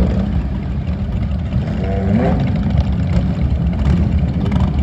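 Several motorcycle engines idling together, running steadily.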